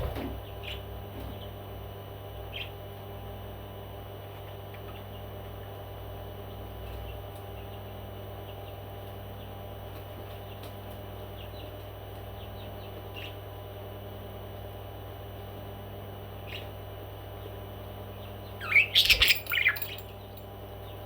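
A parrot squawking: a few faint single chirps, then a quick, loud run of squawks and chirps lasting about a second near the end, over a steady low hum.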